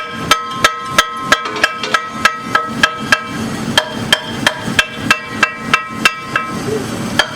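Hammer striking metal in a steady run of blows, about three a second, each leaving a short metallic ring; the blows break off twice for about half a second.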